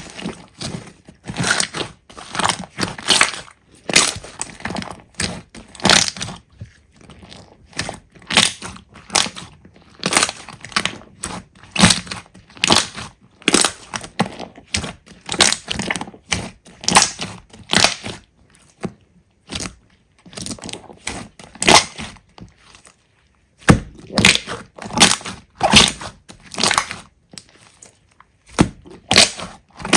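Slime being squeezed and pressed by hand, giving quick crackling, crunching pops in irregular bursts, with a few short pauses.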